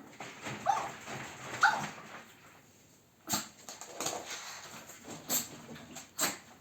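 A dog giving two short, high calls, then sneezing sharply three times.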